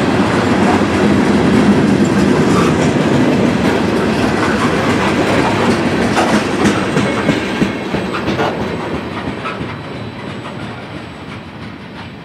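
Tail end of an Iowa Interstate freight train, tank cars and boxcars, rolling past with wheels clicking over the rail joints; the rumble fades away steadily in the second half as the train recedes.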